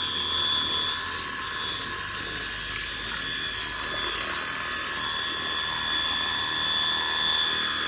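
Stihl RCA 20 battery pressure washer running steadily: a high electric motor-and-pump whine with several fixed tones over the hiss of the water jet.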